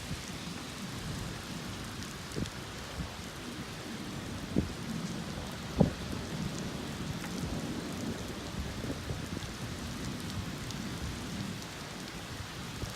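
Steady rain in a thunderstorm, with low thunder rumbling under it. A few sharp taps of drops land close by, the loudest about six seconds in.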